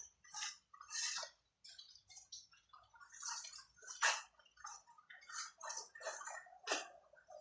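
A series of irregular light knocks and clicks, one to two a second.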